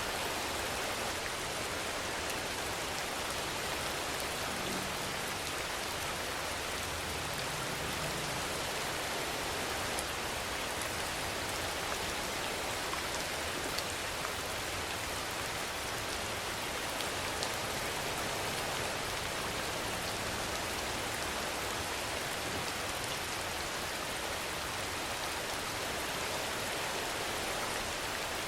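Steady rainfall: an even hiss, with faint scattered drop ticks.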